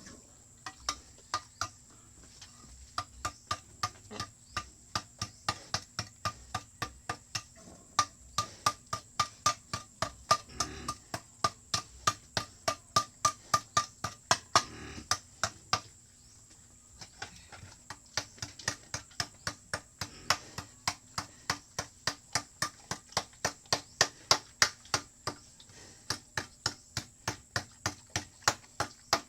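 Hammer blows, about two to three a second and uneven in strength, some with a short metallic ring, pausing briefly about halfway through: nailing during the pigpen repair.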